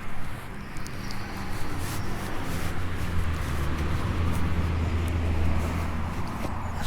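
A passing vehicle: a low engine drone that builds over a couple of seconds, holds, then fades shortly before the end, over a broad rushing noise.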